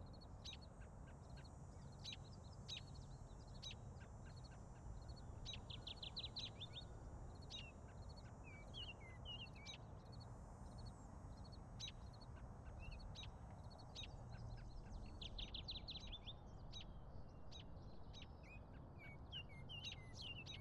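Outdoor ambience of small songbirds chirping, with short calls scattered throughout and a rapid trill twice, over a faint steady low background rumble.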